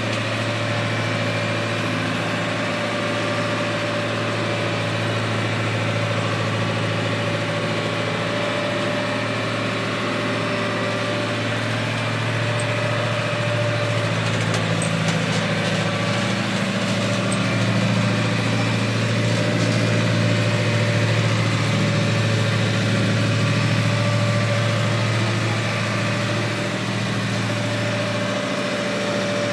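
A sailboat's auxiliary engine running steadily: a constant low hum with a thin steady whine above it.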